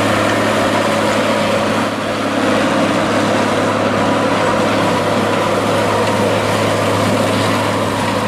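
John Deere 4440's turbocharged six-cylinder diesel engine running steadily at a constant speed, with a steady low drone.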